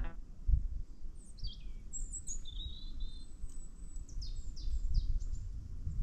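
Small birds calling: short high chirps and several quick downward-sweeping notes, over a low rumble with a low thump about half a second in.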